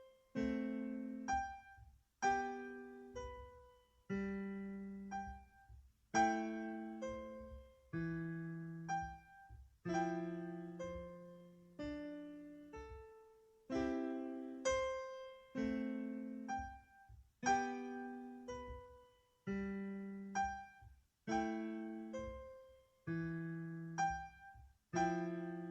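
Background music: a slow solo piano piece, a chord struck about every two seconds and left to fade, each followed by a brief higher note.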